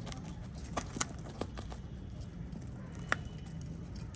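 Caged small parrots pecking at seed: a few scattered sharp clicks and taps, the loudest about three seconds in, over a steady low rumble.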